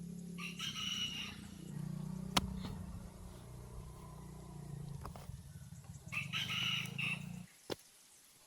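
A rooster crowing twice, each crow about a second long, with a low steady hum underneath that cuts off suddenly near the end.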